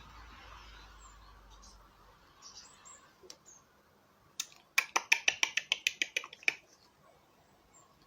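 A single sharp click, then about half a second later a quick even run of some fifteen sharp clicks, about eight a second, lasting under two seconds.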